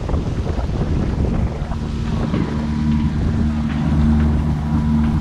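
Strong gusty wind buffeting the microphone, with a boat's engine running steadily underneath, its low hum coming in about a second and a half in.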